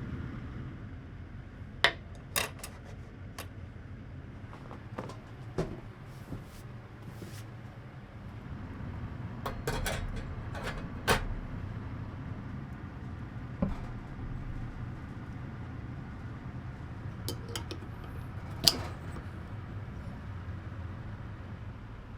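Scattered clinks and knocks of dishes and utensils being handled, about a dozen short sounds at uneven intervals, over a steady low hum.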